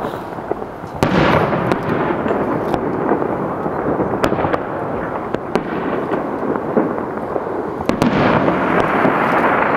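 Fireworks display: a continuous rumble of shell bursts, peppered with sharp crackles, with two bigger booms about a second in and again near the end.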